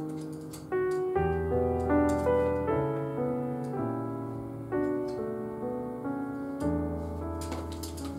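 Background piano music: a gentle tune of notes and chords, each struck and fading away, with a low bass note under them.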